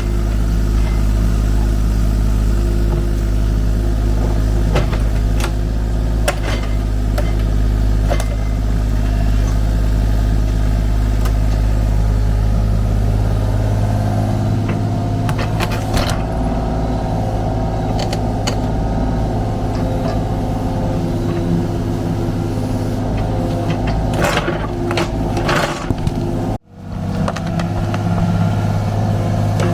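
Kubota U35-4 mini excavator's diesel engine running steadily under work, with scattered knocks and clanks from digging. The sound drops out for an instant near the end.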